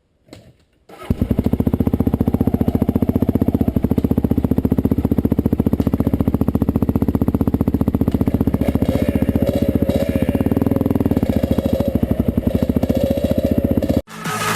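Dirt bike engine started about a second in and running steadily with a fast, even firing beat, wavering slightly midway, then cutting off suddenly near the end.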